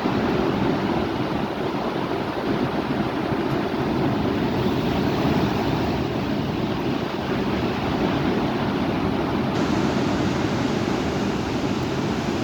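Heavy thunderstorm winds blowing in a steady, loud rush.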